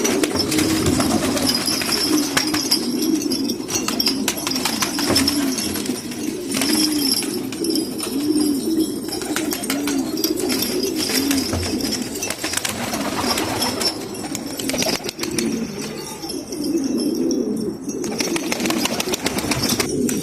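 Several domestic pigeons cooing at once, their coos overlapping without a break, with wing flaps and sharp scratchy clicks among them.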